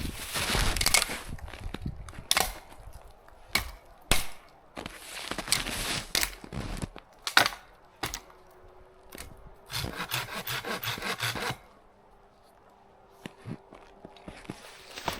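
Hand saw cutting wood in three runs of quick rasping strokes, with sharp knocks in between.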